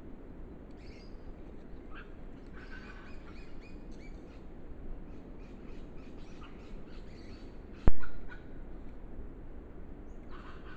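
Small birds chirping now and then in bushland over a steady low hiss, with one sharp click about eight seconds in.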